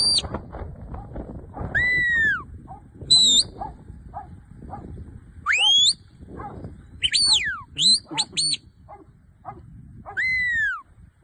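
A handler's whistle commands to working sheepdogs: clear, sharp whistles sweeping up and down in pitch. There is a long arching whistle that falls away about two seconds in and another near the end, with a quick run of short rising and falling whistles in between.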